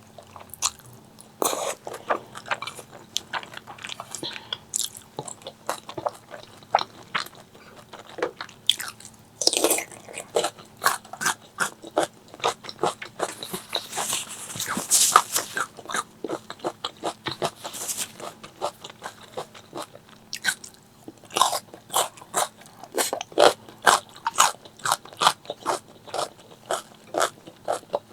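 Close-miked eating sounds: a person biting and chewing crispy fried chicken, a rapid run of crisp crunches and wet chewing clicks, with a longer hissy stretch about halfway through.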